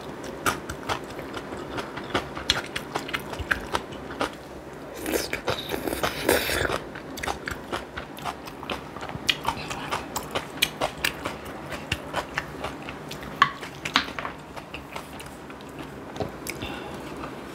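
Close-miked eating: a person chewing and biting food with many irregular, sharp, crunchy clicks, and a longer rush of noise about five to seven seconds in.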